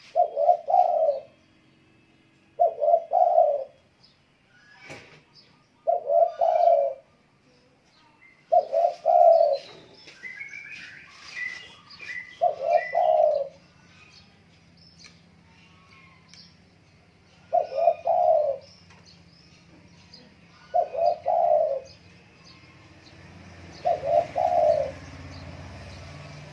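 Spotted dove (derkuku) cooing: a low two-part coo phrase of about a second, repeated eight times every two to four seconds. Fainter high chirps from other small birds come in around the middle.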